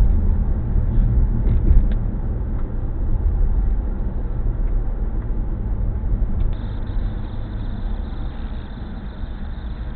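A steady, low rumble inside a car, slowly fading, with a few faint clicks.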